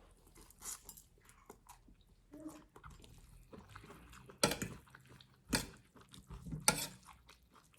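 Kitchen handling sounds: small splashes of water and clinks of a pot or dish, with three louder knocks about a second apart in the second half.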